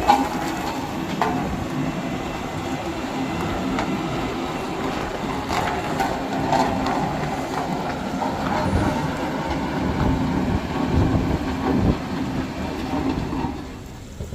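Heavy diesel engine running hard with metallic clatter, from a truck or earthmoving machine working the road; it eases off shortly before the end.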